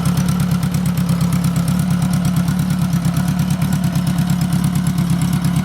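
1976 Honda Goldwing GL1000's flat-four engine idling steadily through its newly mounted exhaust pipes and mufflers, an even, rapid exhaust pulse with no change in speed, still warming up.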